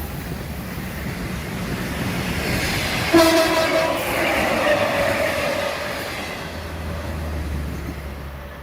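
A passing train running on the rails, with its horn sounding suddenly about three seconds in, the note sinking slightly in pitch and fading over a few seconds.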